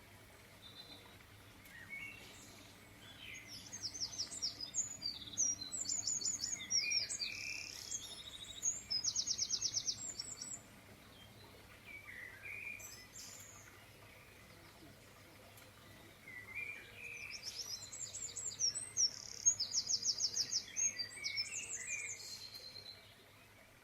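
A songbird singing in two long bouts of quick, high trills and chirps, each lasting about six seconds, with a pause between them.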